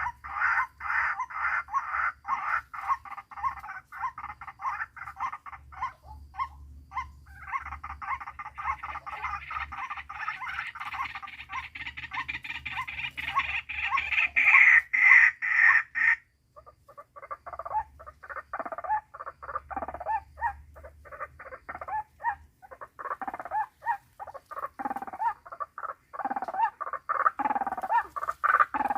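White-breasted waterhen (ruak-ruak) calling: a fast, rhythmic series of croaking calls, several a second, that breaks off abruptly a little past halfway and resumes with a lower, more varied run of calls.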